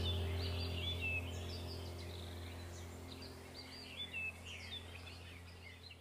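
Small birds chirping in short repeated calls over the fading tail of a low held tone from meditation music, which dies away toward the end.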